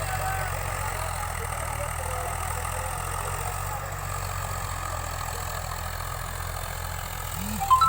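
Tractor engine running steadily at a constant speed. A short, louder blip sounds just before the end.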